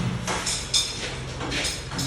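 Installation work: a few sharp knocks and short scraping rattles of tools and parts being handled, over a steady low hum.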